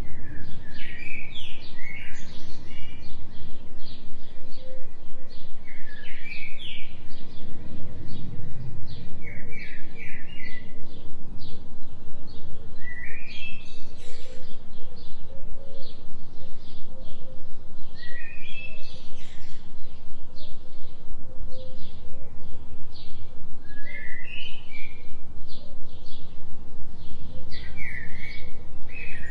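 Birdsong from a forest soundscape: short, rising chirped phrases repeated every few seconds. Beneath it runs a steady low drone that pulses evenly.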